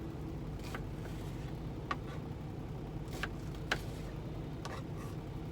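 Steady low hum of an idling truck engine, with a handful of light clicks and taps from a knife peeling and cutting an onion, the sharpest about two thirds of the way in.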